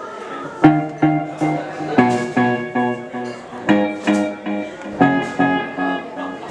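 Guitar alone playing a repeated pattern of plucked chords, a few notes a second with short breaks, as the intro to a rock song.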